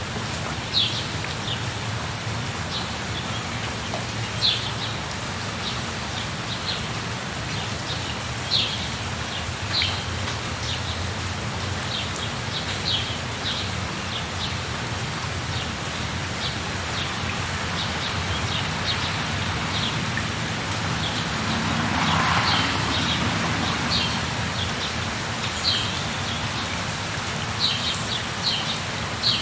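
Steady rain with birds chirping, short high calls scattered throughout. The rain swells briefly about two-thirds of the way through.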